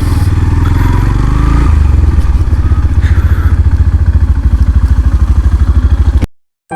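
Motorcycle engine running at low speed with a steady, even beat. It cuts off abruptly near the end.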